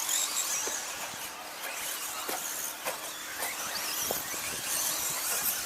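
Several 2WD radio-control stadium trucks racing on the track: a steady high-pitched whine that rises and falls as they accelerate and slow, with scattered sharp clicks and knocks.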